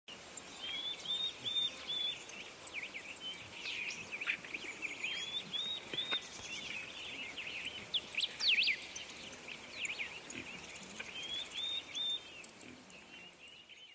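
Birds singing and chirping, with many quick notes and sweeps. A short phrase of a few repeated notes comes back three times.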